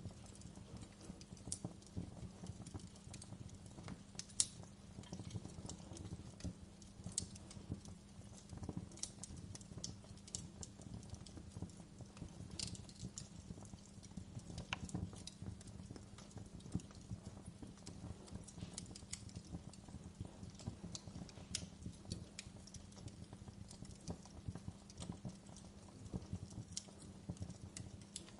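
Wood fire crackling in a fireplace: frequent sharp snaps and pops at irregular intervals over a steady low rumble of the burning logs, with the loudest pop about four seconds in.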